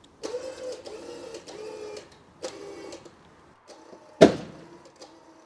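Electric winch motor whining as it hauls in its rope under load, running in two stretches with a short break. A sharp loud click comes a little over four seconds in, then the whine goes on more faintly.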